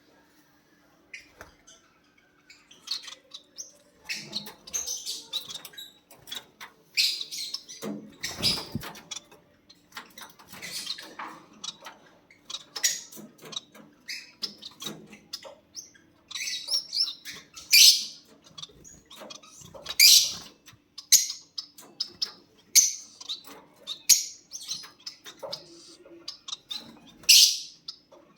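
Lovebirds chirping: many short, shrill calls in irregular clusters, louder in the second half.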